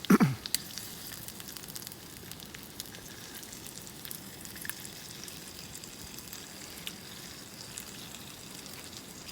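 Campfire crackling with a faint steady sizzle and scattered small pops. Right at the start a brief, louder sound slides down in pitch.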